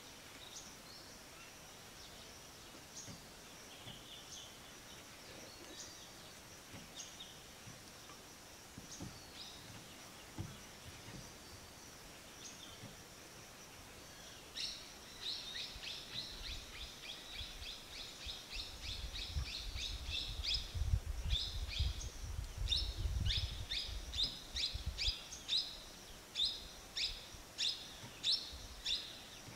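Small birds chirping in high, short notes: scattered at first, then a quick run of repeated chirps from about halfway, about two a second near the end. A low rumble runs underneath for several seconds in the second half.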